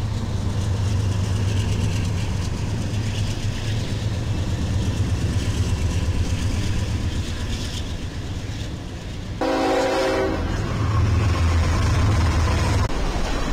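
Train running past with a steady low rumble, and a short horn blast of about a second, nine and a half seconds in.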